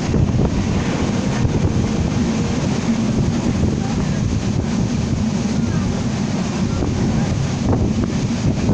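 Steady low rumble and rush of a moving passenger train, with wind buffeting the microphone.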